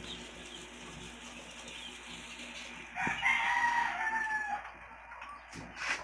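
A single loud, drawn-out bird call about three seconds in, lasting about a second and a half, over a faint steady hum.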